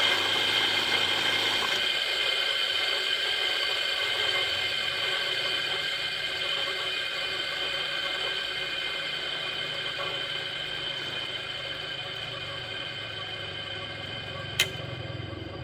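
An electric motor running with a steady whine that fades gradually, with a single sharp click near the end.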